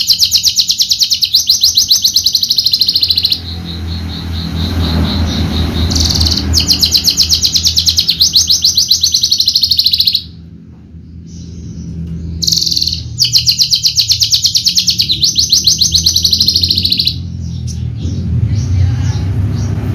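Horsfield's bush lark (Javan branjangan, Mirafra javanica) singing in three long phrases of very rapid, high trilled notes, each lasting a few seconds with short pauses between, over a steady low hum.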